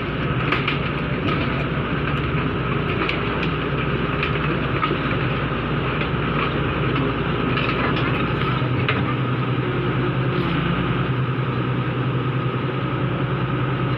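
Komatsu PC200-5 excavator's diesel engine running steadily under work, with scattered clicks and knocks from the machine.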